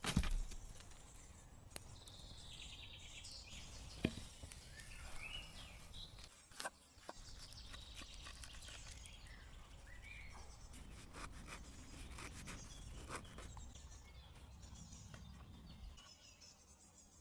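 Faint forest ambience: scattered bird chirps and a high insect buzz, broken by several sharp knocks, the loudest at the very start and about four seconds in.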